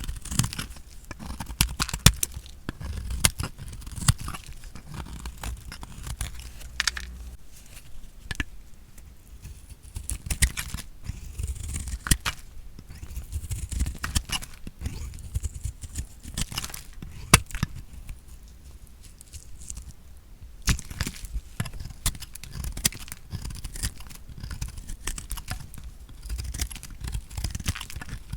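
Bar soap being cut, crunching with dense crackling clicks throughout.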